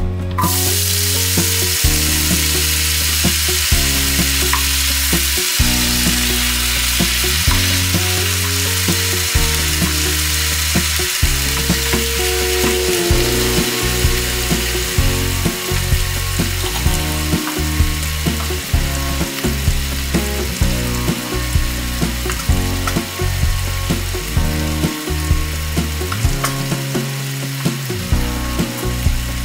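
Diced potatoes frying in hot oil in a pan with cumin seeds and spices: a loud, steady sizzle that starts suddenly as the potatoes drop into the oil.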